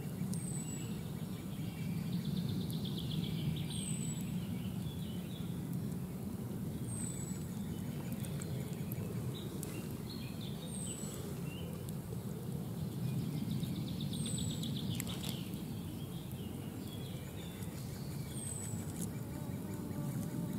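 A bird gives a short, high, falling call about every three to four seconds, with a couple of brief runs of fast chirping, over a steady low rushing background.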